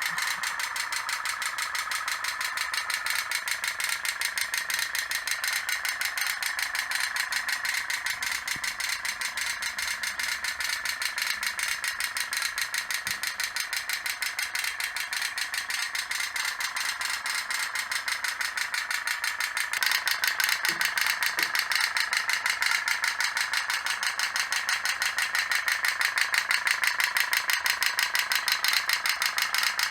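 Two toy pop-pop steam boats running, their little wax-fired boilers making a steady, rapid rattling click. The clicking gets louder about two-thirds of the way through.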